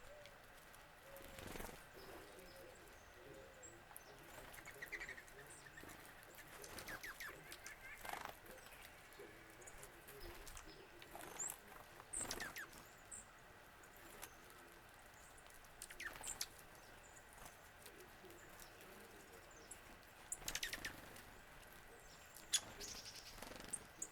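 Wild birds calling faintly: scattered short calls and high chips, with a rapid run of notes about seven seconds in.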